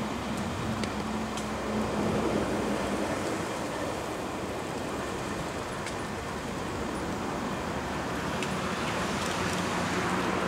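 Towed Tobu 500 series Revaty passenger cars rolling past on the rails: a steady noise of wheels on track with a few faint clicks, swelling about two seconds in and again near the end.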